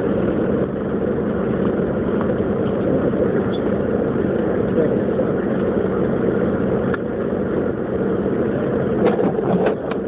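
Steady engine and road noise inside the cabin of a Jeep Grand Cherokee 4x4 driving through the snow, with a few faint clicks near the end.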